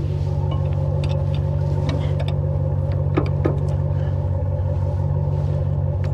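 A vehicle engine running at a steady speed, with a few light knocks or rattles about three seconds in.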